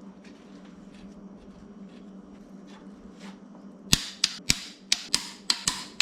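A low steady hum, then from about four seconds in a run of sharp clicks, roughly three a second, each with a short ring.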